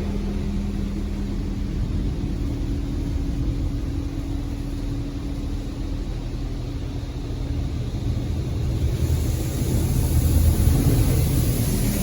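PDQ LaserWash 360 touchless car wash running: a steady low pump hum under water spraying onto the car, the spray growing louder and hissier about nine seconds in.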